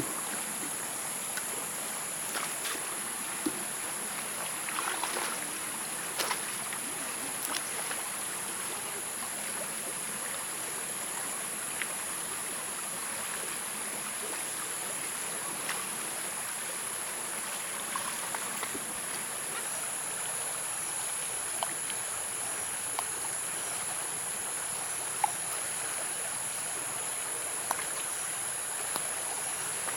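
Outdoor ambience: a steady high-pitched insect drone over an even rushing hiss, with scattered light clicks and knocks.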